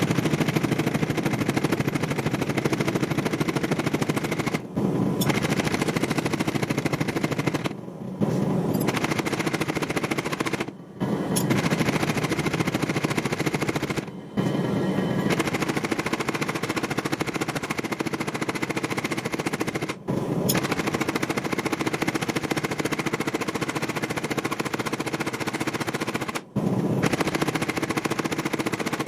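Rapid, continuous hammering of hot steel while forging a blade, in stretches that stop abruptly and restart several times.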